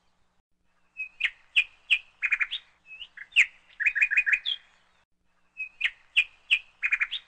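A small bird chirping in quick runs of short, sharp notes, starting about a second in, with a brief pause before a final run.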